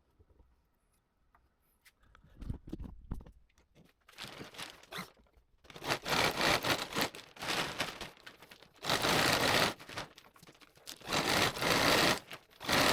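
Belt-driven power tool running on a makeshift leather belt cut from a dog leash, after its drive belt broke. It runs in repeated bursts of about a second, each a loud scraping, rasping noise, after a few quieter scrapes and knocks.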